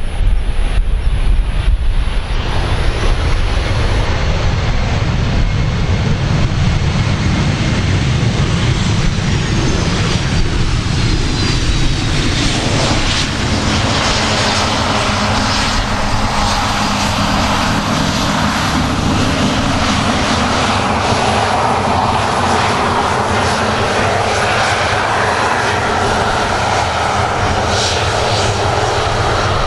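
Jet engines of a Boeing 737-500 airliner running loud and steady as it lands. A deep rumble dominates the first half, and a high whine falls in pitch partway through.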